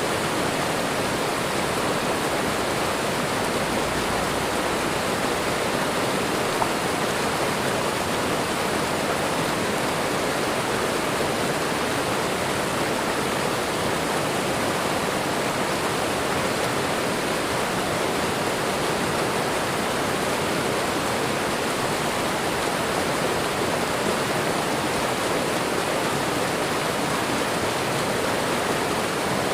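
Waterfall and running water making a steady, unbroken rushing.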